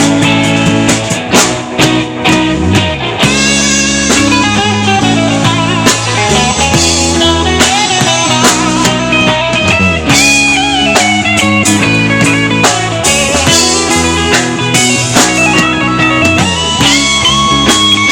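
Live rock band playing an instrumental passage: a guitar lead with bending, sliding notes over bass and drum kit.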